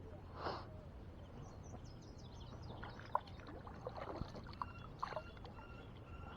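Water splashing and sharp knocks around a kayak, with small birds chirping high in the background.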